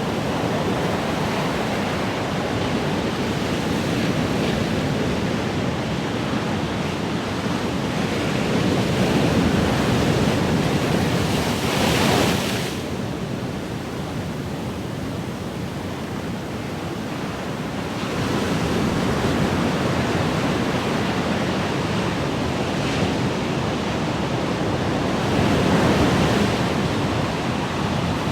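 Ocean waves breaking and washing on a shore, a steady rushing surf that swells and eases. The brightest hiss comes at about twelve seconds, followed by a quieter lull, then another swell near the end.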